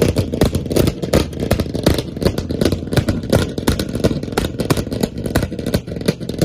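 Car engine revving, with a rapid, irregular crackling throughout.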